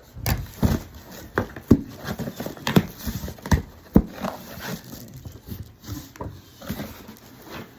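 A cardboard shipping box being opened and unpacked by hand: irregular knocks and thuds with rustling between.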